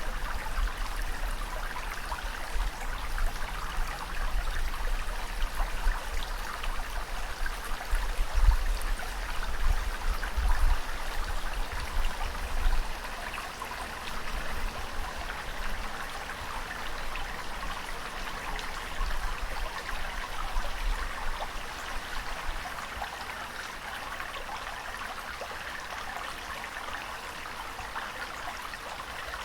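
Steady rushing and splashing of moving water, with deep rumbling surges in the first half that are loudest around eight to thirteen seconds in and then die away, leaving a softer, even wash.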